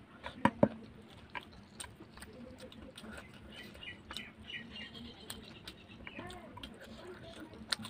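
Close-up mouth sounds of someone eating with their hand: wet clicks and lip smacks while chewing, with two loud smacks about half a second in as a handful of food goes into the mouth.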